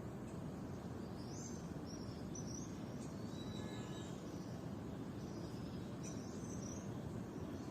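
Small birds chirping: short high chirps scattered through, with one longer thin whistled note about three and a half seconds in, over a steady low background rumble.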